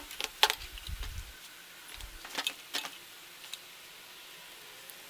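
A handful of light, sharp clicks and taps in the first three seconds, then quiet room tone.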